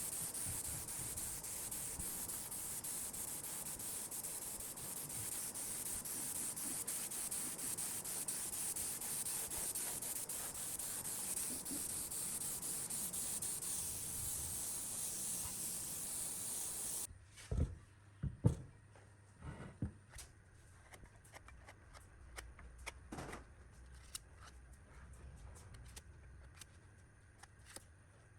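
Steady hand sanding, a continuous rasping hiss with no motor in it. Over halfway through it cuts off abruptly, leaving a quieter stretch with a few scattered knocks and clicks.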